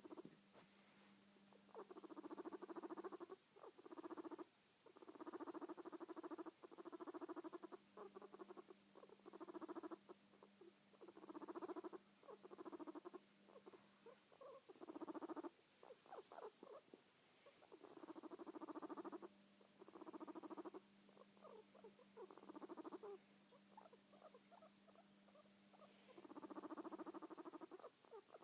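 Guinea pig purring in repeated short bouts, each about half a second to a second long, with brief pauses between them throughout.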